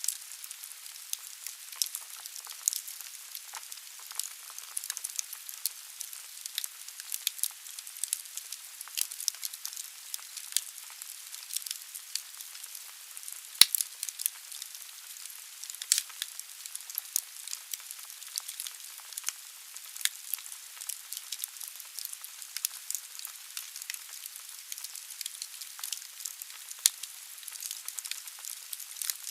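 Logs burning in a fireplace: a soft steady hiss of flame with frequent sharp crackles and pops from the wood, one louder pop about fourteen seconds in.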